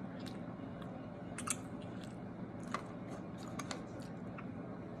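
A person chewing food close to the microphone, with sharp wet mouth clicks and smacks every second or so over a steady low hum.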